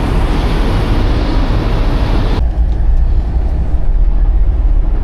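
Semi truck's diesel engine running with a strong low rumble as the truck pulls off. A steady hiss over it cuts off abruptly about two and a half seconds in.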